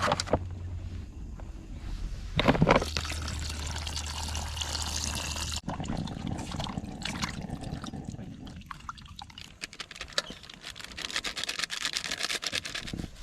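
Water being poured and splashed as raw chicken is washed by hand, with small clicks and a louder knock about two and a half seconds in.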